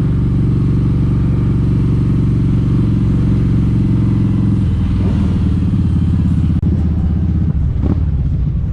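Kawasaki Vulcan 1700 Vaquero's V-twin engine running steadily while being ridden, its note dropping about halfway through.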